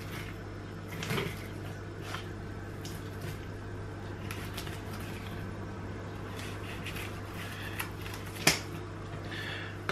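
Filleting knife cutting a kahawai fillet off the backbone on a wooden cutting board: soft scrapes and small clicks as the blade works along the bones, with one sharper tap near the end. A steady low hum sits underneath.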